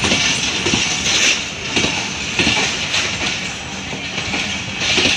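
Pakistan Railways passenger coaches of the arriving Allama Iqbal Express rolling past along the platform, their wheels running on the rails with a recurring clatter.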